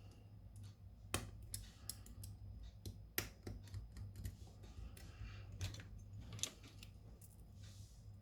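Irregular small clicks and taps of hand tools working on a smartphone, a few sharper ones standing out, over a low steady hum.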